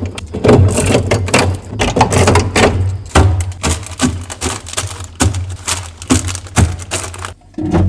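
A quick, uneven run of clicks and knocks as packaged snacks and drinks are handled and stacked into a fridge, with a steady low hum underneath.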